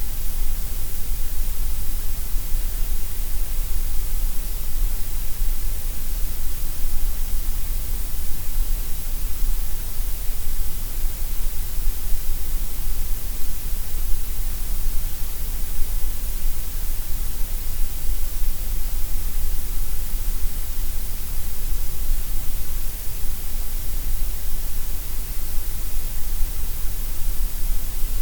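Steady synthetic gray noise: an even, unchanging hiss across the whole range, with extra weight in the deep bass and the highest treble.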